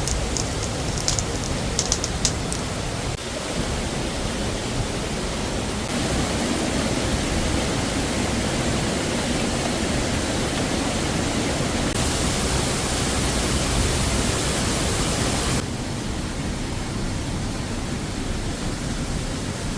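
Waterfall: a steady, loud rush of falling water, its tone shifting abruptly brighter or duller at several points.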